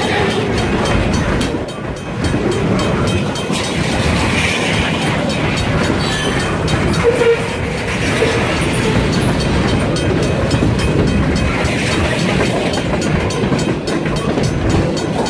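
Freight train rolling past, a steady rumble with its wheels clicking rapidly over the rail joints.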